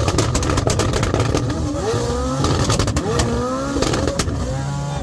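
Car engines revved hard again and again, the pitch climbing and dropping with each rev, with sharp cracks throughout.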